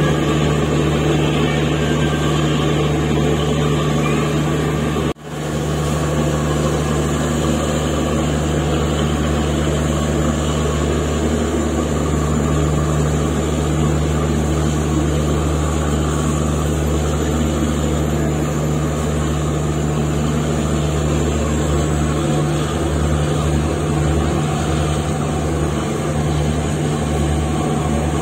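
Steady running noise of a moving express train heard on board: a constant low rumble and hum with wheel and track noise. It cuts out for an instant about five seconds in.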